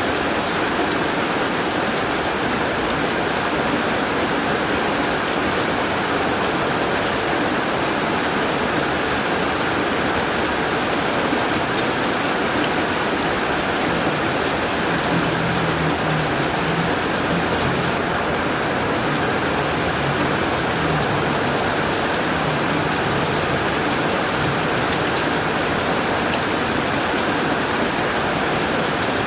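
Steady heavy rain drumming on a tin roof: a dense, even patter of drops.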